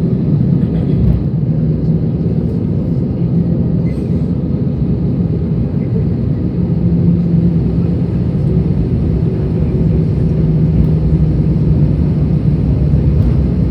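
Steady low rumble of an Airbus A320's idling engines heard inside the passenger cabin as the airliner taxis after landing, with a faint steady hum underneath.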